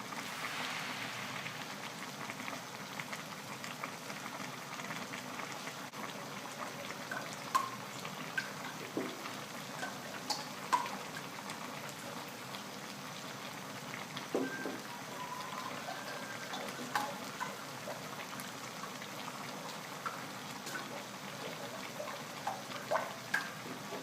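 Pot of chicken curry simmering on the stove: a steady bubbling hiss with scattered small pops and ticks.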